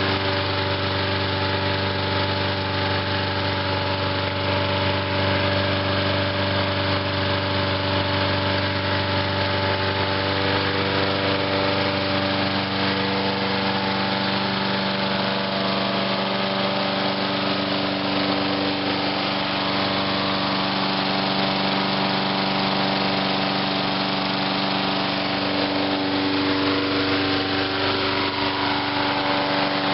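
Briggs & Stratton single-cylinder engine of a 2003 Huskee (MTD) 22-inch self-propelled mower running steadily, its pitch wavering slightly in the second half. The tank has been siphoned empty, so it is running on the last fuel in the line and carburettor, being run dry for winter storage.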